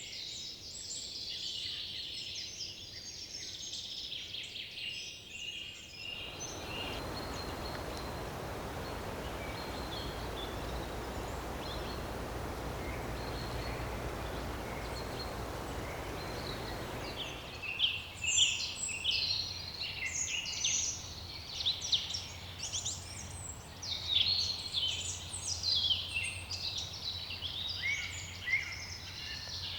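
A chorus of songbirds singing with many quick high chirps and trills. For about eleven seconds in the middle, a steady rushing noise covers the song, and the birds come back loud and busy after it.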